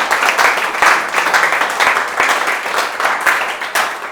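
Audience applauding, many people clapping steadily; the applause begins to fade near the end.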